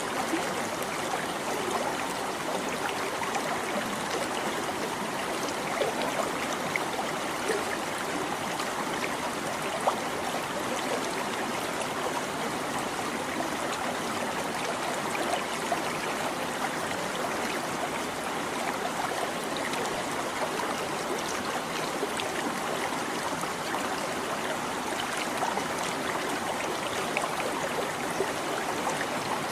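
Small stream babbling and trickling over stones, a steady rush of running water with many small splashes.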